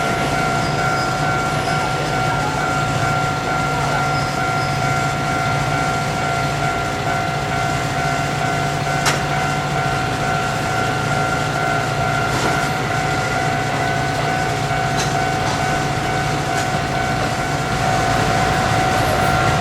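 Railway crossing warning bell ringing steadily as two unbroken tones, over the steady rumble of a Kintetsu train running through the crossing. A single sharp click sounds about nine seconds in.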